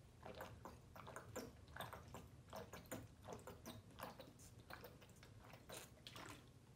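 Quiet, close-miked mouth sounds of a person drinking and eating: irregular wet smacks and clicks, a few each second.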